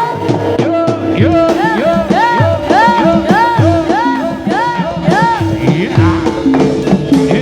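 Javanese jaranan (Senterewe) ensemble music: a high sliding melody repeats a rising-and-falling figure about three times a second over steady ringing gong-chime tones and low drum strokes that bend in pitch.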